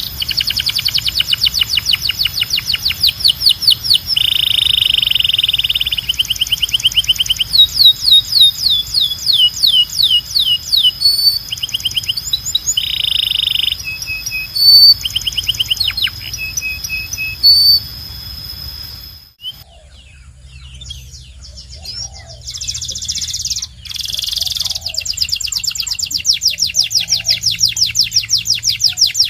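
Domestic canary singing in fast trills and rolls, with runs of repeated rising sweeps and short held notes. About two-thirds of the way through, the song breaks off briefly, then resumes over a different low background hum.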